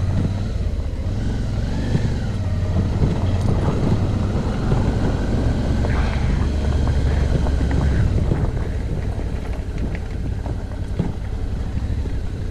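Suzuki V-Strom motorcycle's twin-cylinder engine running steadily at low speed on a rough dirt road, with scattered knocks and rattles from the bumps.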